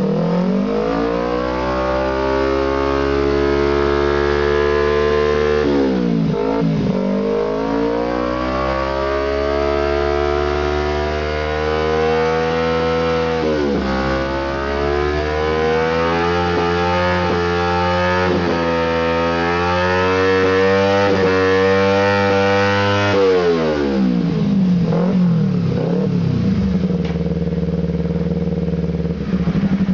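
Kawasaki Z250 parallel-twin engine revving through an aftermarket Termignoni-style exhaust. The revs are held high for several seconds at a time and drop back three times. Near the end come a few quick blips before it settles to idle.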